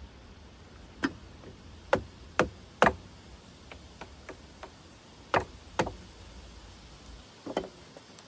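A hand tool striking metal parts of a sawmill: about seven sharp knocks at uneven intervals, two pairs close together, the loudest a little before three seconds in.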